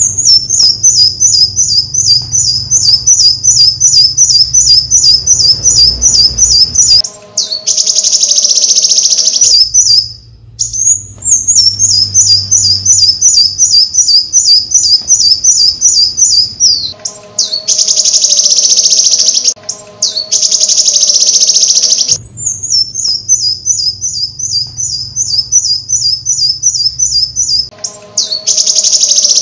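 Bird-like chirping, very high-pitched: runs of rapid, evenly repeated chirps alternate every few seconds with a loud hissing, buzzy trill, and the pattern repeats about three times.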